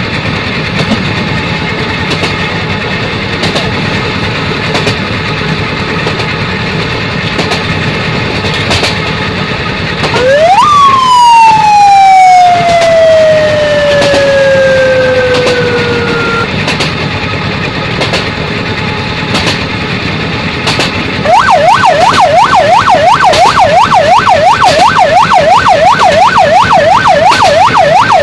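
A siren: about a third of the way in it wails once, rising fast and then falling slowly in pitch over about six seconds. Near the end it switches to a rapid yelp, rising and falling about three times a second. Before it there is a steady noisy background with regular clicks.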